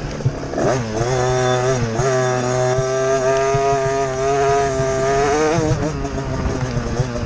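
Motocross bike engine heard from on board, revving up hard just under a second in, dipping briefly near two seconds, then held at steady high revs before backing off about a second from the end.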